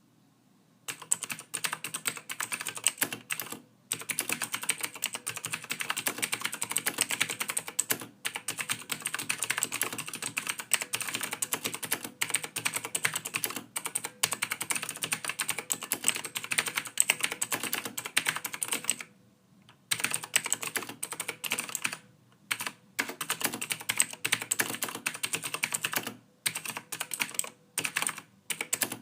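Continuous typing on a computer keyboard: dense, rapid runs of soft key clicks. They start about a second in and stop briefly now and then, with one longer pause about two-thirds of the way through.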